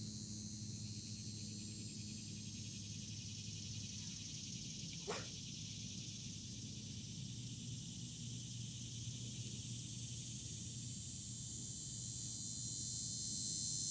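Steady high-pitched buzzing of an insect chorus, growing louder near the end, over a low steady hum, with one brief rising chirp about five seconds in.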